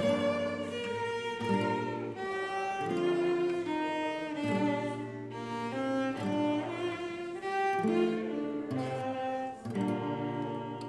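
Instrumental church music with bowed strings playing a slow melody of held notes. It grows quieter near the end.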